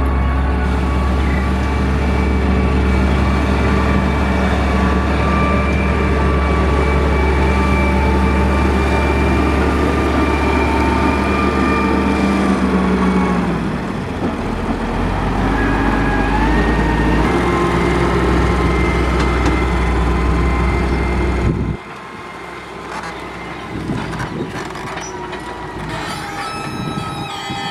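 Heavy diesel engine of a Caterpillar 140H motor grader running steadily under load. Its pitch drops about halfway through, then settles again. After a sudden cut, a quieter machine sound follows with thin whining tones near the end.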